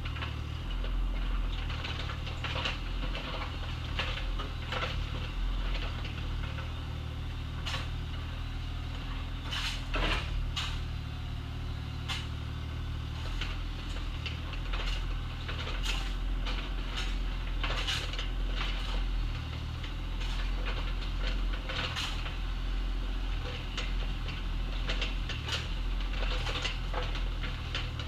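Bobcat excavator's diesel engine running steadily under load while it digs, with repeated clanks, knocks and scrapes from the bucket and stones, the loudest knock about ten seconds in.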